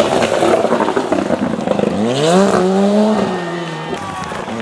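Ford Sierra Cosworth rally car's turbocharged four-cylinder engine under hard driving: a rough, noisy stretch, then the revs climb sharply about two seconds in, hold briefly and drop back near the end.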